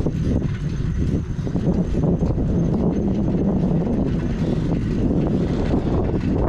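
Wind buffeting the microphone of a moving bicycle, a steady low rumble.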